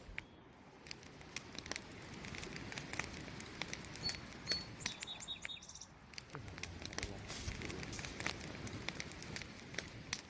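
Wood campfire crackling, with frequent sharp pops and snaps over a low rush of flame. Around the middle a bird gives a few short high chirps.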